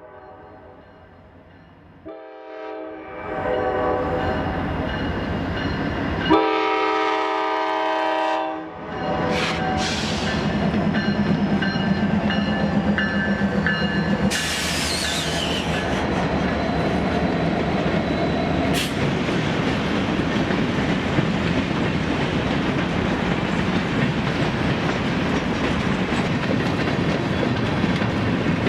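A train's horn sounds a chord of several notes in a few blasts, the longest about six to eight seconds in, as the train draws near and grows louder. Then the train passes with a steady rumble of wheels on the rails, a short high wheel squeal about halfway through and a sharp click a few seconds later.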